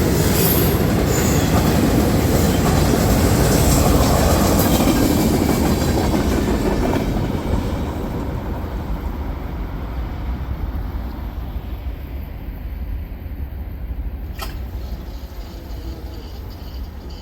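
Loaded freight train cars rolling past, a steady rumble of wheels on rail that fades away after about seven seconds as the train moves off. One sharp click near the end.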